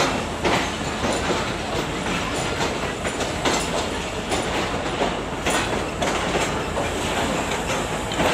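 Pakistan Railways express train rolling into the station: a steady rumble with the wheels clattering over rail joints, sharp clacks coming every fraction of a second.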